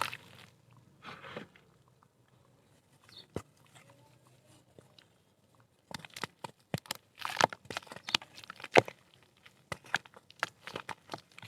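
Chunks of dried mud dirt being crumbled, giving crisp crunches and crackles. A few cracks come early, then a near-quiet pause, then a dense run of crunching and snapping through the second half.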